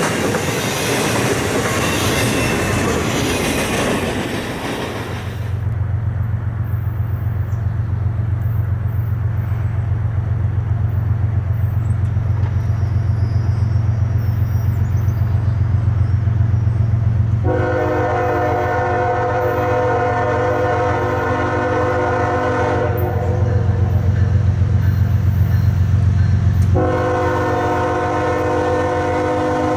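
Rail traffic: wheels running on the rails for the first few seconds, then a diesel locomotive's engine with a deep, pulsing rumble. Its multi-note air horn blows long blasts over the engine in the second half.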